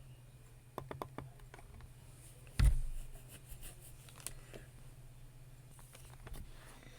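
A few scattered clicks of a computer mouse and keyboard, three in quick succession about a second in and a few more later, with one much louder knock about two and a half seconds in, over a low steady hum.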